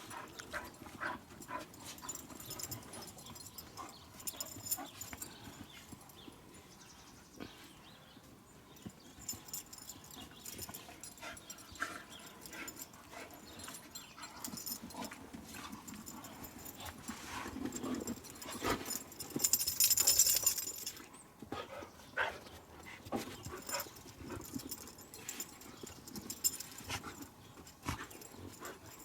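Dogs playing in deep snow: scattered paw falls, scuffles and snuffling. About twenty seconds in there is a louder rush of scuffling noise.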